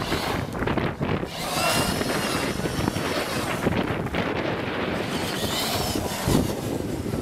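Radio-controlled car's motor whining, rising and falling in pitch as it speeds up and slows, under steady wind noise on the microphone.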